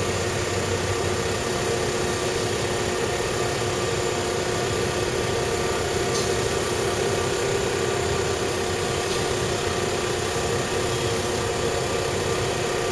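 Small oil-free 12 V DC air compressor running steadily, with an even motor hum and pump noise.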